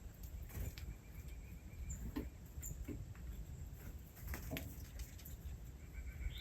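Small animals calling: scattered short chirps and clicks, with a brief high trill early on, over a steady low rumble.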